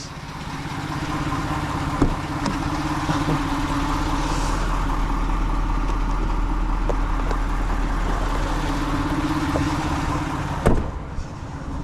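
Tow truck's engine idling steadily, with a single sharp knock near the end.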